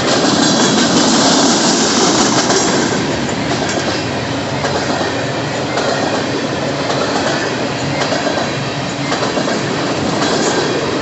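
Freight train rolling past at close range: a steady rumble of railcars with wheels clacking over the rail joints. A brighter high hiss from the wheels sits over the first few seconds.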